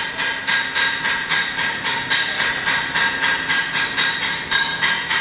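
A steady mechanical rhythm: hissing, clattering pulses about three times a second, with a faint steady whine underneath.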